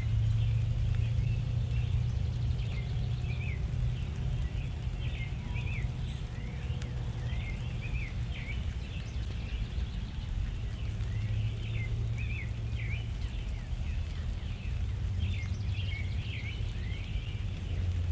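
Small backyard birds chirping and calling over and over in quick short notes, over a steady low rumble.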